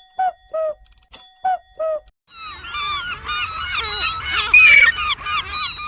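For about the first two seconds, a ringing chime followed by two short falling calls repeats three times. Then comes a dense chorus of many birds honking and calling at once, which stops abruptly near the end.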